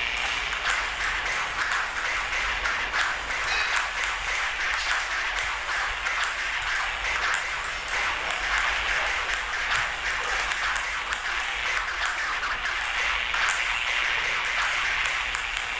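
Table tennis rally: a ping-pong ball clicking sharply against bats and the table several times a second, irregularly, over a steady hiss.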